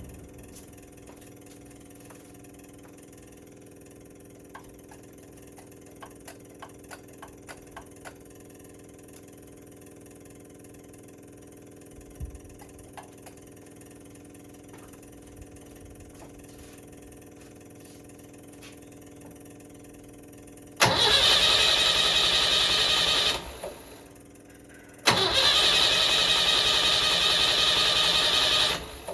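Datsun J-type four-cylinder engine, fitted with an MGB intake manifold and a copy Weber carburettor, started twice after a quiet stretch with a few light clicks. The first run begins suddenly and fades out within about three seconds. The second begins about four seconds later and stops abruptly.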